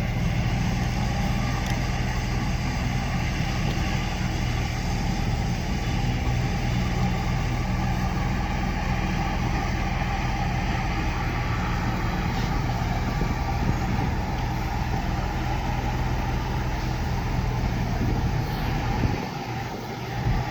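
Heavy engine of rail track-repair machinery running steadily with a low hum, dipping briefly near the end.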